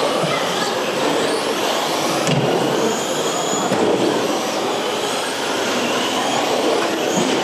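Several electric 1/10-scale RC short course and stadium trucks racing: high-pitched motor whines rising and falling as they accelerate and brake, over a steady rushing noise of the trucks running on the track.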